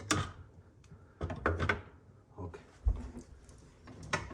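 A few scattered clicks and knocks as a refrigerator door is handled and set back onto its hinge.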